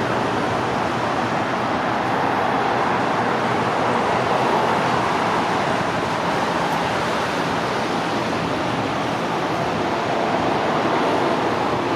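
Boeing 777-236(ER) twin jet engines at takeoff thrust, a steady rushing noise with no sharp events.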